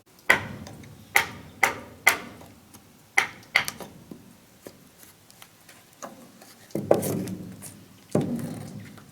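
A series of sharp knocks on wood at an irregular pace, about six in the first four seconds, then two heavier, duller thuds that ring on briefly, typical of wooden building work with hand tools.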